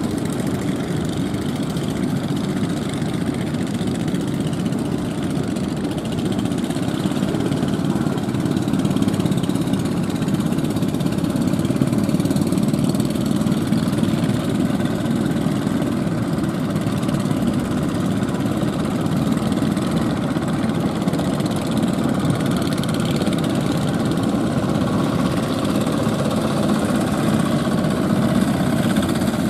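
Fishing boat engine running steadily, with a slight swell in level partway through.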